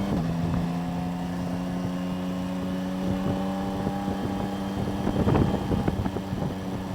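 Motorcycle engine running at a steady pitch, picked up by a helmet-mounted clip-on mic, over a ragged low wind and road rumble. A few sharp knocks come about five seconds in.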